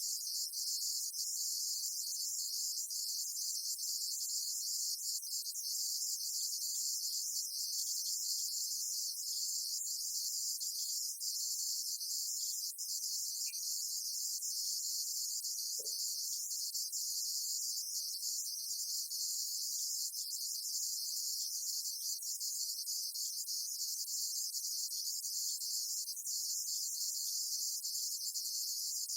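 A steady, high-pitched hiss or chirring, with no low engine sound.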